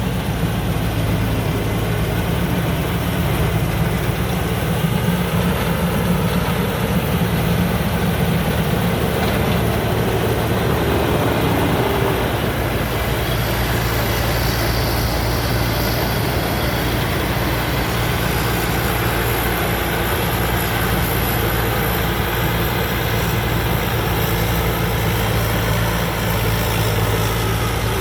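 Combine harvester's diesel engine running steadily at a constant pace.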